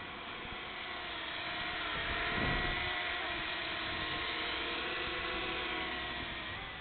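Small foldable quadcopter drone's propellers whining in flight, several pitches together that waver slightly. It grows louder about two seconds in as it comes closer, then holds steady and eases off near the end.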